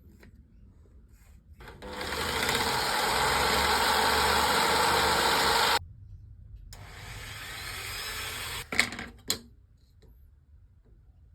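Jigsaw cutting in two runs: a loud run of about four seconds, a short stop, then a quieter run of about two seconds, followed by two sharp knocks.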